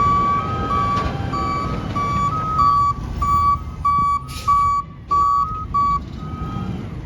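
Recycling garbage truck's reversing alarm beeping, about one and a half beeps a second, over its engine running; a fainter, slightly higher beep sounds between them. The beeping stops about six seconds in, and a short hiss sounds about four and a half seconds in.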